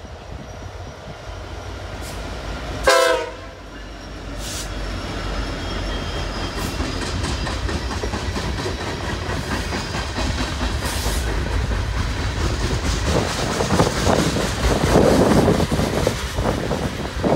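Union Pacific SD70ACE freight locomotive sounding one short horn blast about three seconds in. Then the locomotives and the freight cars of a mixed manifest rumble past, louder as they draw level, with wheels clattering over the rail joints.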